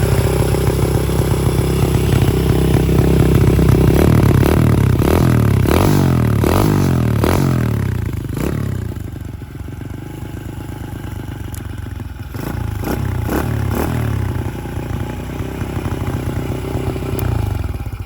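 Chinese Gorilla-style kit bike's 125cc single-cylinder four-stroke engine running through its exhaust. It idles, then is revved in a quick series of throttle blips, each rising and falling in pitch. It drops back to a lower idle, gets a few more blips, and settles to idle again.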